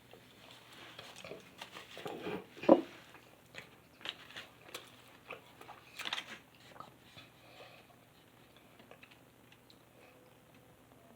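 A person eating close to the microphone: bites and chewing, with one loud bite or crunch a little under three seconds in. The chewing grows fainter and sparser in the last few seconds.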